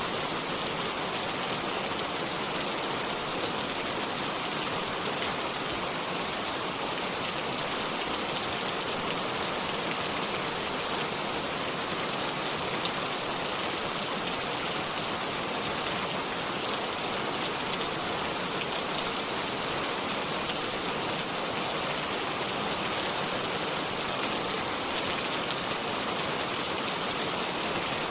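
Steady rainfall, a dense even patter of drops on surfaces that does not change.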